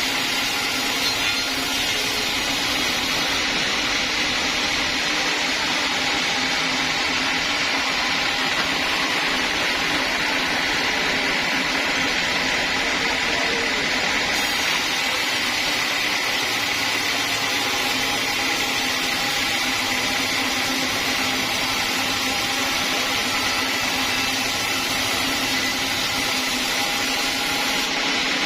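Sawmill saw machine running steadily with a continuous motor whine and hum, as it saws teak timber.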